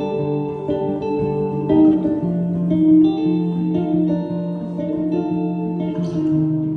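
Live instrumental music led by plucked guitar, playing a steady pattern of held, ringing notes with no singing.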